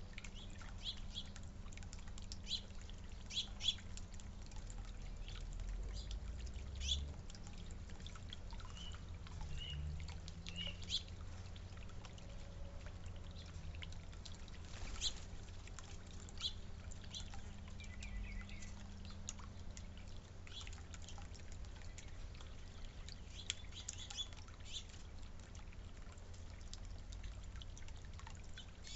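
Small backyard birds chirping now and then, short high calls scattered irregularly, over a steady low background noise.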